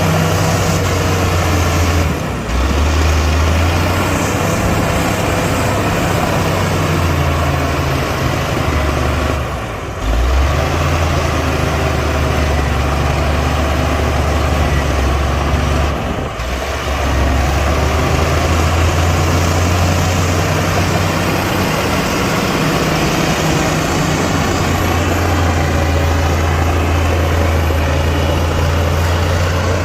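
Heavy diesel engine of earth-moving machinery running with a deep, steady drone, dropping briefly about two, ten and sixteen seconds in.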